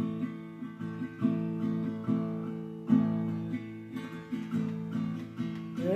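Acoustic guitar strummed on its own, with no voice: chords renewed by a stroke roughly once a second and left to ring between strokes.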